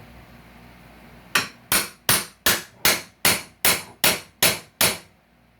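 Hammer striking ten quick, even blows, about three a second, starting about a second in, each with a short ring.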